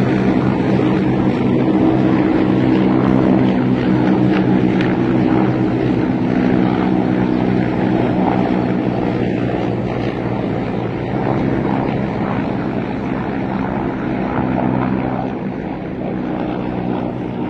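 Several military helicopters flying over: a steady drone of rotors and turbine engines with a low hum of engine tones, fading slowly toward the end.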